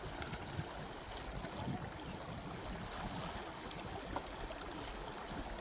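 Steady rushing outdoor background noise with a deep rumble underneath and a few faint ticks.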